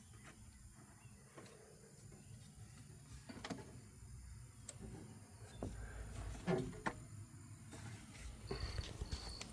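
Faint scattered clicks and knocks of handling, like a vehicle door being worked, with a low rumble building over the last few seconds and a brief high beep near the end.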